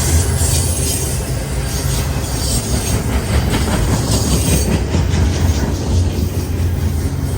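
Train passing close by: a steady heavy rumble with a continuous run of rapid clicks from the wheels rolling over the rail.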